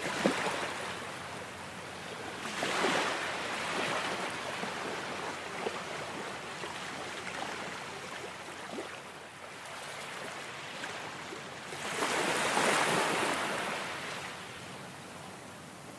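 Ocean surf washing in and out in swells, loudest about three seconds in and again near the three-quarter mark, with a brief sharp splash right at the start.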